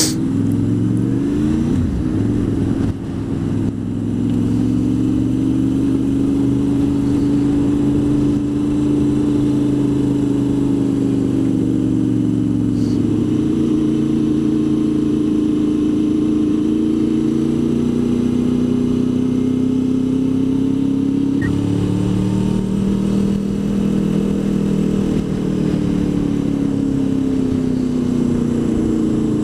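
Honda VFR800 VTEC's V4 engine running under way on the road. Its note rises and falls gently with the throttle, with a sudden change in note about two-thirds of the way through.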